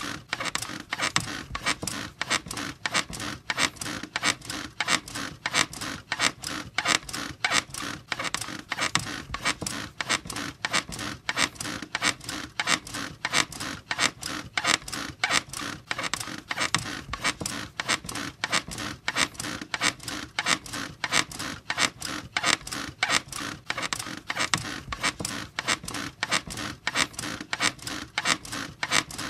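Bed squeaking in a fast, even rhythm: the bed's springs and frame creak over and over as it rocks.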